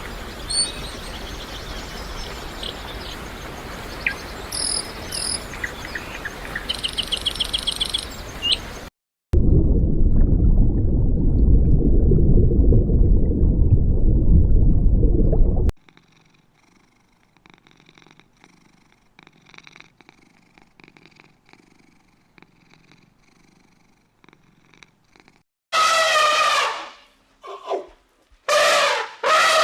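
Cat sounds. A few short high chirps over a noisy background, then a loud, low purr-like rumble lasting about six seconds. After a quiet stretch, a cat meows several times near the end.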